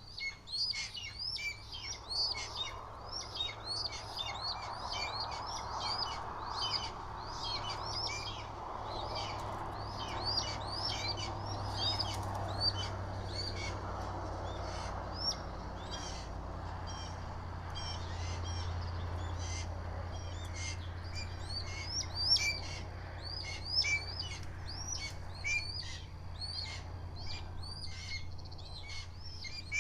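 Wild birds chirping continuously around the nest, many short, quick calls overlapping, over a steady low hum. A faint rushing noise sits under them in the first half.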